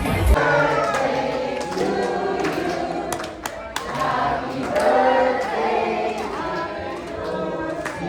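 A group of voices singing together, without the bass-heavy dance music that cuts off just after the start.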